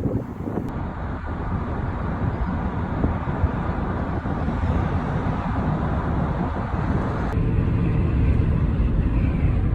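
Outdoor rumble of strong wind buffeting the microphone, mixed with road traffic noise. About seven seconds in the sound changes abruptly, becoming deeper and louder.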